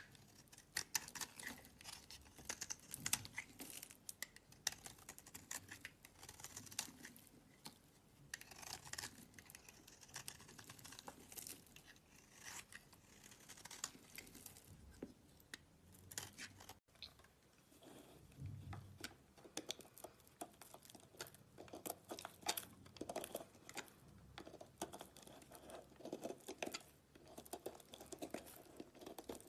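Slime being squeezed and stretched by hand, giving a steady run of small sticky crackles and pops. About halfway through there is a cut, after which the crackling is fuller and lower.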